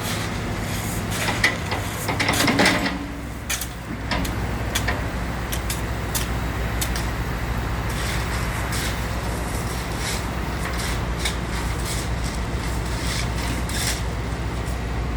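Backhoe's diesel engine running steadily while it digs, with scattered knocks and clanks from the bucket and arm, and a louder scraping clatter about two to three seconds in.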